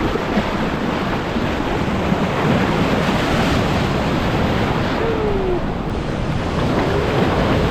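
Ocean surf rushing and breaking in a steady roar, with wind buffeting the microphone.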